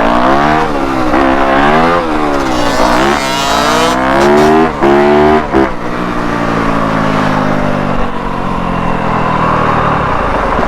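Yamaha YZ250F's 250 cc single-cylinder four-stroke dirt bike engine being ridden, its pitch rising and falling several times as the throttle is worked, then falling slowly over the last few seconds as the bike slows.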